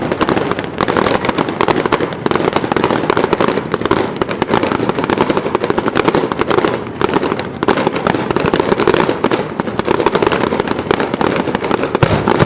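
Fireworks display going off in a dense, continuous barrage of crackling and popping, many bursts overlapping with no break.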